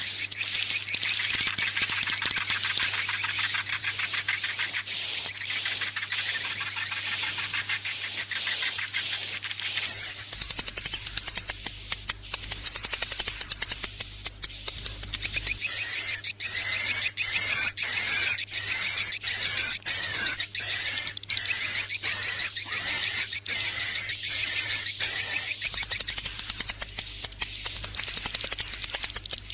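Recorded swiftlet calls played as a swiftlet-house lure: a high, wavering whistle-like tone under a dense run of quick chirps and clicks. It mixes a roosting call ('inap') with a courtship call ('akau birahi').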